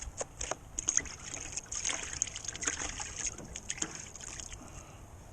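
Quick-setting joint compound (hot mud) being mixed in a mud pan with a drywall knife: irregular wet scrapes and squelches as the blade works through the compound.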